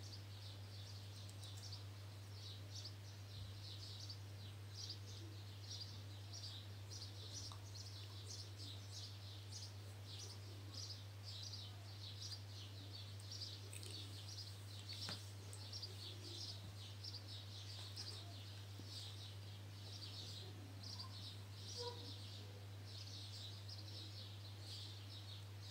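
Small birds chirping over and over in quick, short calls, over a steady low hum.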